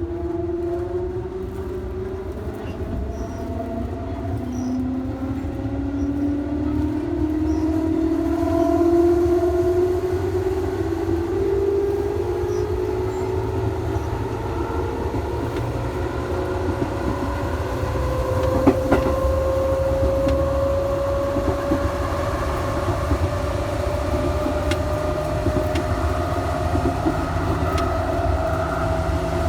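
Electric train's traction motors whining as it accelerates, the whine rising steadily in pitch throughout, over a low running rumble; a single sharp knock about two-thirds of the way through.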